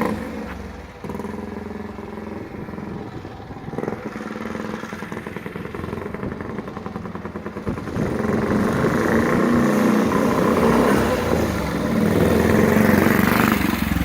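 Single-cylinder 350cc four-valve Rudge engine of a 1920s grasstrack motorcycle, running on methanol while ridden. It fires steadily, quieter at first, then grows louder from about eight seconds in.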